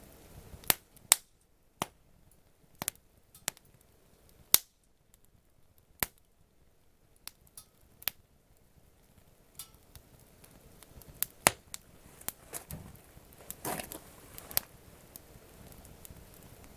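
Wood fire crackling: sharp pops and snaps at irregular intervals, about fifteen in all, over a quiet background, with a brief denser flurry of crackle about two-thirds of the way through.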